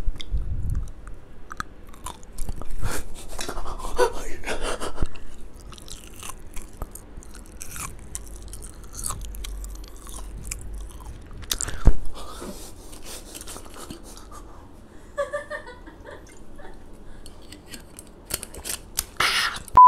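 Close-up chewing of silkworm pupae (beondegi): irregular wet mouth and biting sounds, with one sharp click about twelve seconds in.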